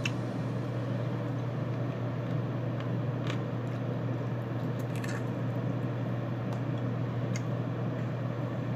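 Mukbang eating sounds of chicken afritada and rice eaten by hand: chewing with soft wet squelches and a few faint clicks, over a steady low hum.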